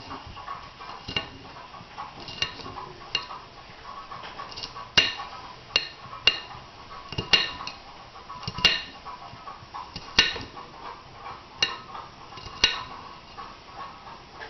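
Kitchen knife chopping fresh garlic: sharp, irregular taps of the blade coming down, roughly one a second.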